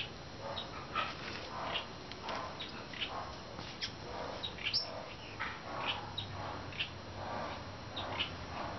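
Birds chirping: short calls coming irregularly, a few each second, over a steady outdoor background hiss.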